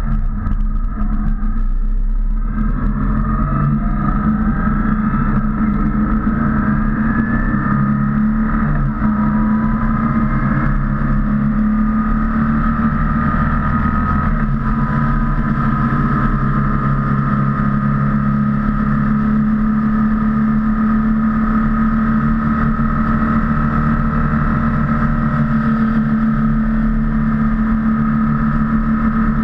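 BMW R1200C motorcycle's boxer-twin engine running steadily at road speed, picked up by a camera on a boom ahead of the bike. Its note climbs slowly over the first ten seconds or so, then holds even.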